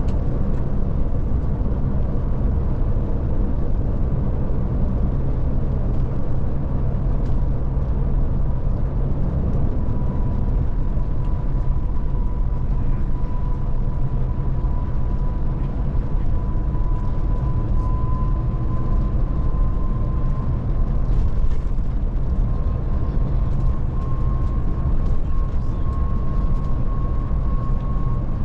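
Scania Touring coach driving along, heard from inside the cab: a steady low engine and road rumble, with a faint whine that slowly rises in pitch over the second half.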